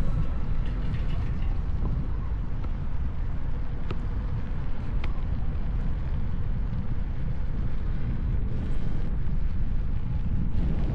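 Steady low wind rumble buffeting the camera microphone while riding an electric unicycle, with a couple of faint clicks in the middle.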